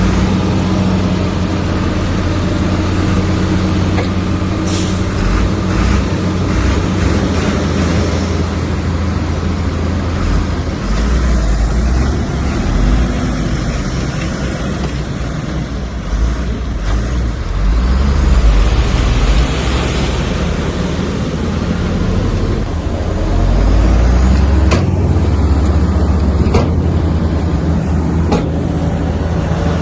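Bulldozer's diesel engine working under load, its drone swelling and easing several times as it pushes. A few sharp metallic knocks sound near the start and near the end.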